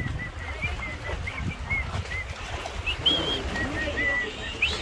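Birds chirping: short repeated chirps, two or three a second, over a steady low rumble.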